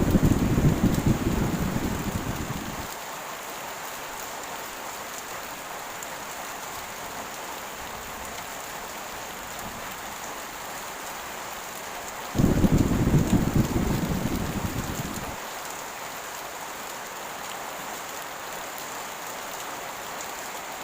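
Heavy rain falling steadily, with two low rolls of thunder: one right at the start and another about twelve seconds in, each starting suddenly and dying away over about three seconds.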